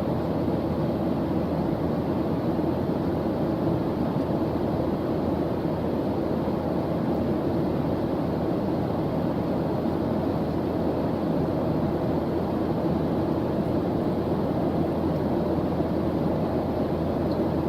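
A steady background noise track of the white-noise kind used for studying, deep and rumbling rather than hissy, holding an even level with no changes or events.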